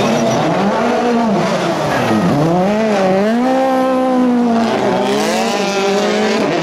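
Rally car engine revving hard as the car slides sideways through a corner. The revs dip and climb again several times as the throttle is lifted and reapplied.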